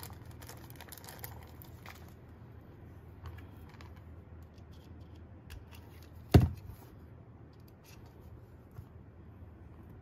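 Small clicks and rustles of gun parts and screws being handled while an airsoft gas-blowback rifle is reassembled. About six seconds in comes one sharp, heavy knock, a part or the gun set down hard on the bench.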